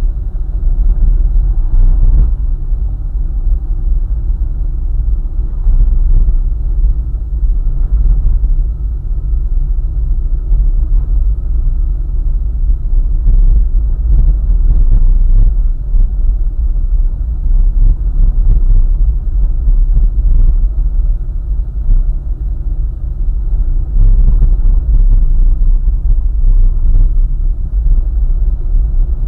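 A car driving along a highway, its tyres and engine making a steady low rumble, with occasional faint knocks.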